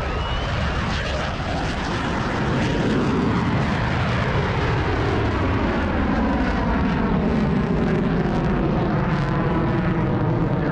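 Boeing F/A-18 Super Hornet's twin General Electric F414 turbofan engines at high power during the takeoff and climb-out. A loud, steady jet roar, with tones sliding slowly in pitch as the jet moves.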